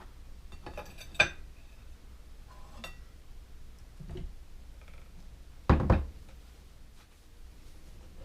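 Dishes and kitchen items being set down and handled on a counter: scattered clinks and knocks, with a heavier thud just before six seconds in.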